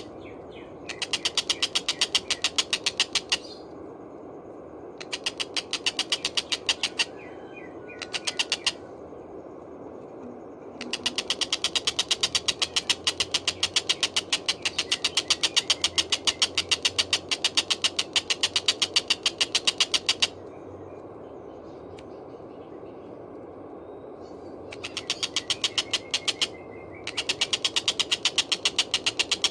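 Tengkek buto kingfisher calling in long runs of rapid, harsh repeated notes, about half a dozen runs with short pauses between; the longest lasts about nine seconds from roughly a third of the way in.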